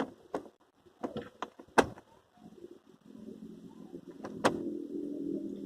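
Several sharp clicks from the Captiva's gear lever being moved into neutral, followed by a faint low hum that slowly grows in the second half.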